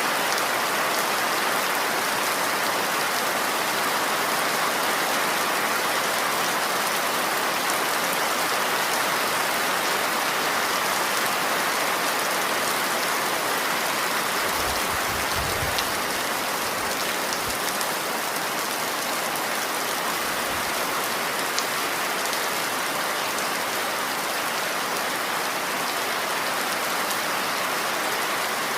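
Steady rain falling, an even, constant hiss of drops on surfaces, with a few brief low rumbles about halfway through.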